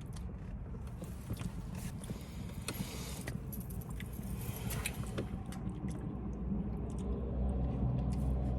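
Low, steady rumble of a car idling, heard from inside the cabin, with scattered small clicks and rustles of things being handled.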